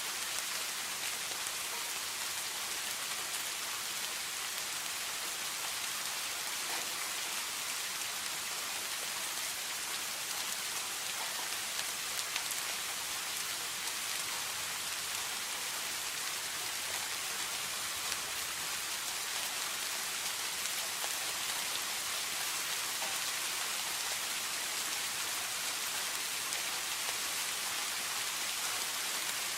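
Steady rain falling, a dense even hiss of drops with faint scattered patters and no thunder.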